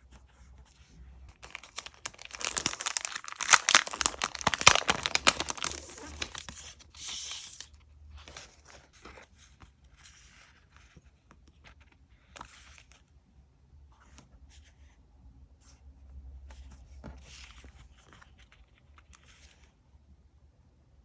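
Crinkly stationery being handled: a dense crinkling, tearing rustle starts about two seconds in and lasts about five seconds, then gives way to quieter scattered rustles and light taps.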